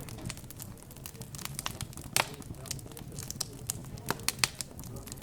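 Wood fire crackling, with irregular sharp pops, the loudest about two seconds in and a quick cluster around four seconds, over a steady low murmur.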